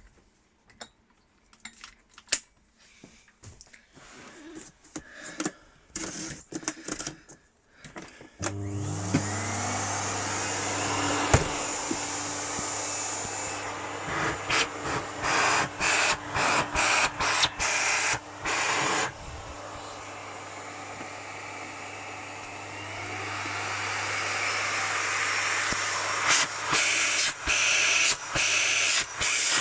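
Miele Cat and Dog TT5000 canister vacuum cleaner: after a few clicks and knocks, the motor switches on about eight seconds in, spins up with a rising whine and then runs steadily at full suction. Short knocks and drop-outs break into the running sound through the middle and near the end.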